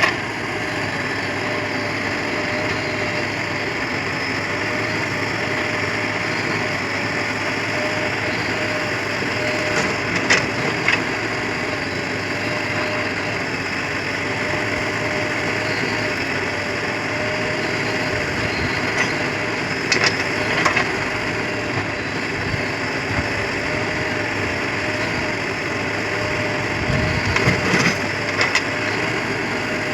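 Diesel engine of heavy farm or earthmoving machinery running steadily with a constant hum. A few brief clattering knocks come about ten, twenty and twenty-seven seconds in.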